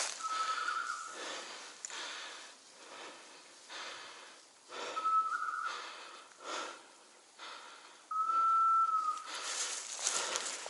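A high, piping whistle tone sounds three times: the first two are short and end in a quick warble, and the last is louder and held for about a second. Between them are the rustle and crunch of steps through forest undergrowth.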